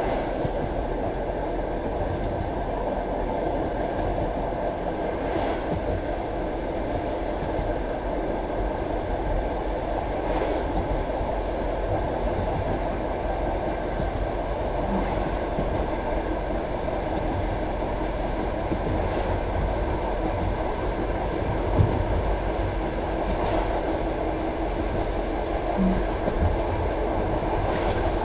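Passenger carriage wheels running on the track at speed: a steady rumble with an occasional knock from the rails, a couple of them sharper near the end.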